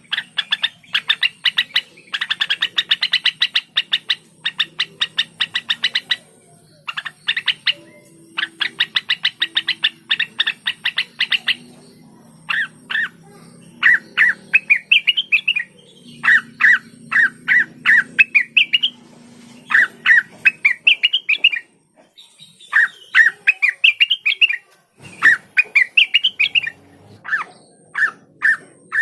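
Cucak wilis (blue-winged leafbird) singing: long fast runs of sharp repeated chattering notes, then from about halfway on short phrases of a dropping note followed by quick rising whistles, repeated every couple of seconds.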